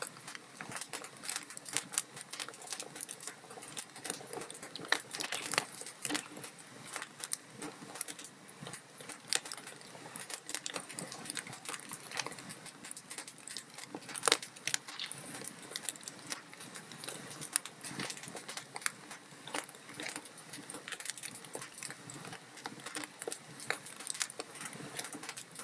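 Log fire burning in a fireplace, the wood crackling steadily with irregular small pops and snaps over a soft hiss; a few louder pops stand out, one about fourteen seconds in.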